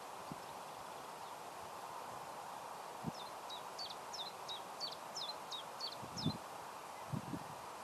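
A small songbird singing a run of about nine quick, repeated chirps, each dipping and rising in pitch, over a steady outdoor background hiss, with a few soft low thumps.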